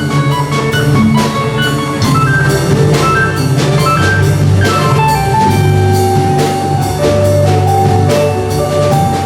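Band music with a drum kit keeping a steady beat under a bass line and held melodic notes.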